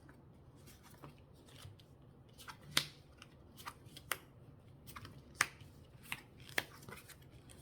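Lenormand cards being handled and drawn: a string of irregular sharp card clicks and snaps, four of them louder than the rest.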